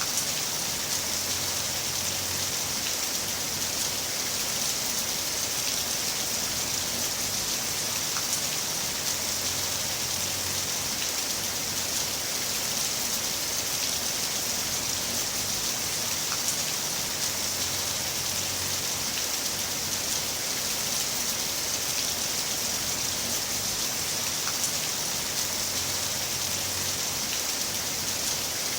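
Heavy rain falling steadily: an even hiss with scattered drop ticks, and a faint low rumble that comes and goes about every eight seconds.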